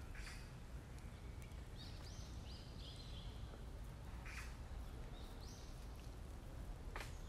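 Quiet woodland ambience: a bird gives a few short high chirps, two close together a couple of seconds in and another past the middle, over a low steady rumble. A few brief rustles of leaves and plants can be heard as well.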